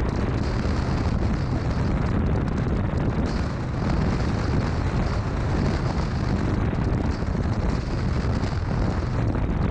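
Steady wind rush buffeting the microphone of a moving motorcycle, with engine and road noise underneath. The sound is heaviest in the low end and holds level throughout.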